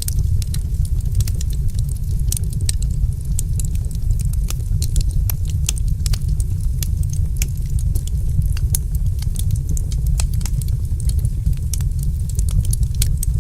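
Fire in a fireplace crackling, with many quick, sharp pops at irregular intervals over a steady low rumble.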